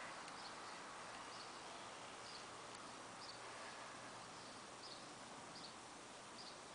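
A small bird calling in the garden: short high chirps repeated about once a second over faint outdoor hiss.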